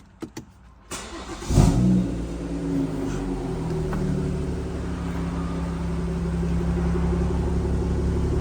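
BMW M240i's 3.0-litre turbocharged straight-six, breathing through an M Performance back box with the resonator deleted, cold-started. After a couple of faint clicks the starter cranks about a second in, and the engine catches with a short flare of revs. It then settles into a steady cold idle.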